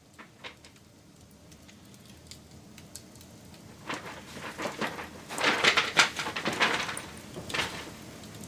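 Wood fire crackling: a low hiss with scattered snaps, then a dense run of sharp crackles and pops about halfway through, with one last pop near the end.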